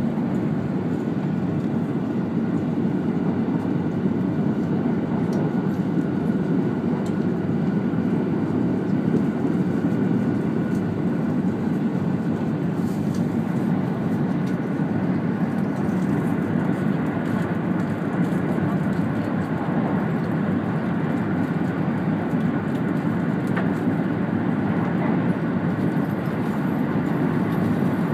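Running noise of a 200 series Shinkansen train at speed, heard inside the passenger car: a steady low rumble that does not change.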